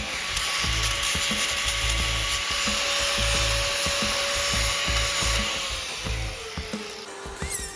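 Handheld grinder running steadily against the aluminium intake manifold with a high whine and grinding hiss, slowing and dropping in pitch near the end as it is let off. Background music with a steady beat plays underneath.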